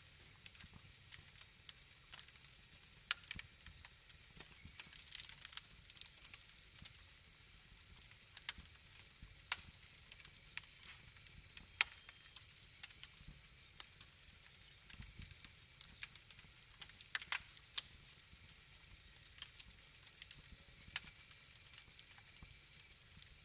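Wood fire crackling: irregular small pops and snaps over a faint hiss, with a few sharper snaps standing out, one near the middle and a quick cluster about three-quarters of the way through.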